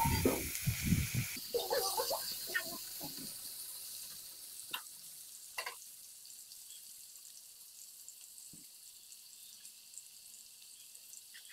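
Sliced potato and brinjal sizzling in hot mustard oil in a kadai, just after going in. The sizzle fades steadily as the oil settles, with a few low knocks at the start and a few isolated sharp clicks.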